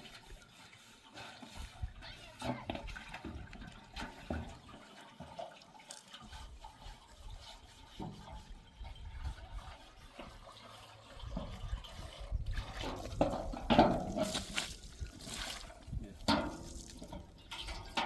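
Water splashing and pouring in irregular bursts, busier and louder over the last six seconds or so.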